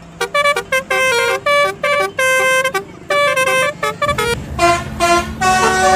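Basuri telolet bus horn playing a quick tune of short, separate notes at changing pitches. There is a brief pause about four seconds in before a second phrase, all over a low steady hum.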